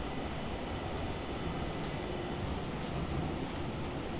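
Steady rumble and hiss inside a moving passenger train car.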